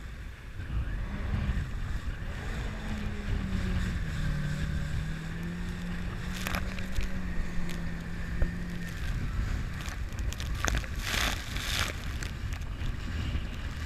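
Jet ski engine running, its note dipping slightly and then holding steady before fading about two-thirds of the way through, with wind buffeting the microphone. A short burst of rushing noise comes near the end.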